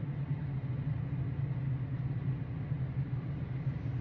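A steady low mechanical hum that holds level throughout, with no clear events on top.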